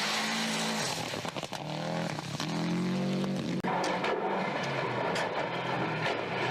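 Subaru Impreza GC8 rally car's turbocharged flat-four engine driven hard. About a second in the throttle lifts with a string of crackles and pops. The revs then climb, break sharply for a quick gear change past the halfway point, and pull steadily again.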